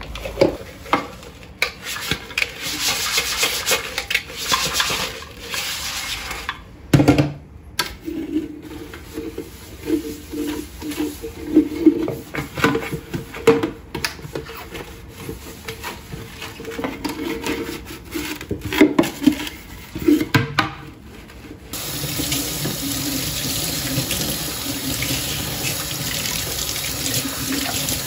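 Irregular knocking and clattering of things being handled and set down, then a kitchen tap is turned on about three-quarters of the way through and runs steadily into the sink.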